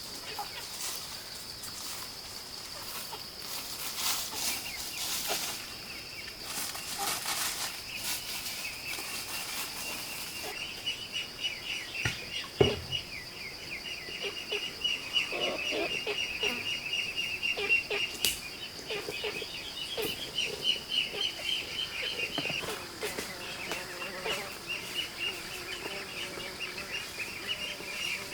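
Birds chirping rapidly and chickens clucking over a steady high-pitched insect drone, with a few scattered knocks.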